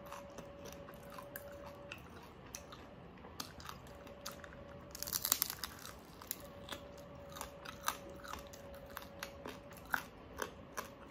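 Close-miked biting and chewing of crispy pata, deep-fried pork leg with crackling skin. Scattered sharp crunches and mouth clicks, with a dense burst of loud crunching about five seconds in, over a faint steady hum that comes and goes.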